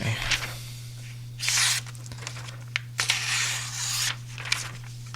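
Knife blade being drawn across a sharpening stone, a few scraping strokes about a second long each, putting a micro bevel on a Magnacut-steel Chris Reeve Sebenza edge to remove small chips.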